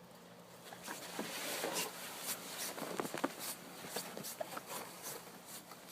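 Snow crunching and scraping in an irregular run of short scuffs.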